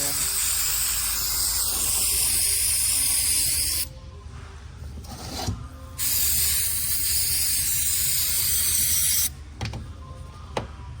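Aerosol brake cleaner sprayed onto a transmission part to flush out old fluid, in two long hissing bursts of about four and three seconds, with a few light knocks in the pause between them.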